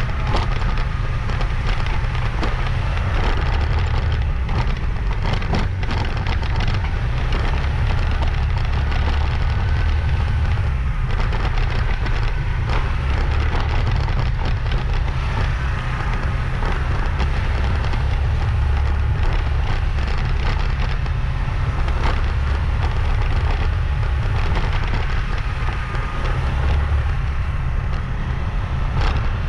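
Wind buffeting the microphone of a moving motorbike, a steady low rumble over the bike's engine and road noise.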